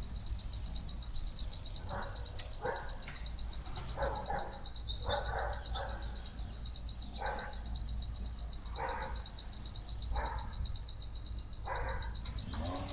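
A dog barking, single barks every second or two.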